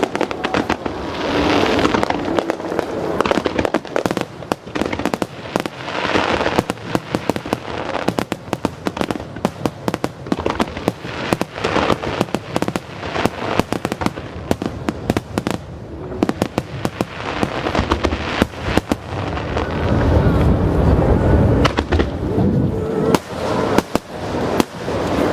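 Aerial fireworks display: a dense, continuous run of shell bursts and crackling, with heavier, deeper booms about twenty seconds in.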